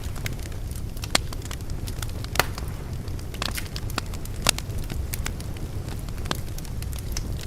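A fire crackling, with sharp irregular pops over a steady low rumble; the loudest pops come about a second in, near two and a half seconds and just past halfway.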